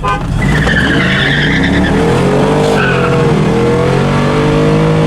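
A 5.3 V8 truck spraying a 100-shot of nitrous launching hard from a standstill at full throttle: the tires squeal for the first couple of seconds while the engine revs climb, fall back at each upshift, and climb again.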